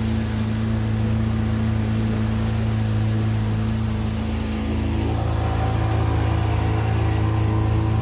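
Boat engine running steadily at low speed, a continuous hum, its note shifting slightly about five seconds in.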